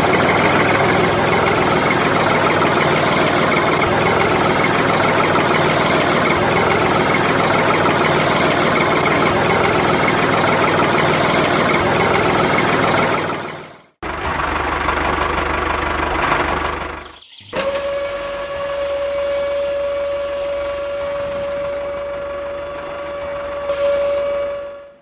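A steady mechanical running noise, like a small engine or motor, cuts off about halfway through. After a short break and a brief different noise, a steady, even-pitched motor whine holds to the end.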